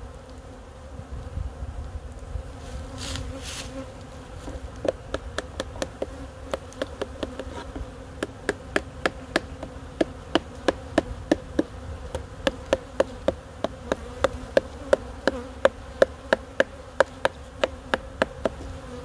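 Steady buzzing of a stirred-up honeybee colony. From about five seconds in, a long run of regular hammer blows, two to three a second, grows louder toward the end.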